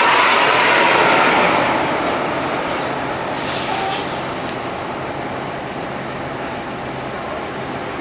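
Coach bus running, heard from inside. A loud hiss opens the sound and fades over the first two seconds, a brief high hiss comes about three and a half seconds in, and steady road and engine noise runs underneath.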